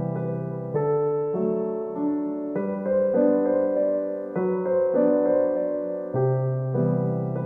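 Background music: a gentle solo piano piece, notes and chords changing at an unhurried pace.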